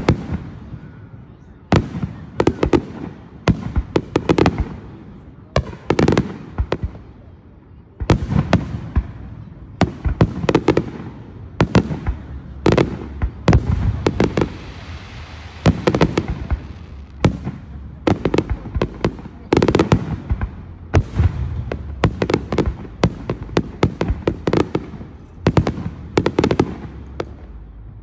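Fireworks display: aerial shells bursting one after another in a rapid, irregular run of bangs, several close together at times, with a hiss of burning stars around the middle.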